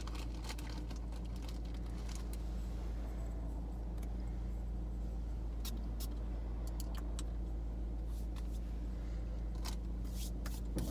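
Car engine idling, heard from inside the cabin as a steady low hum, with scattered light clicks and taps.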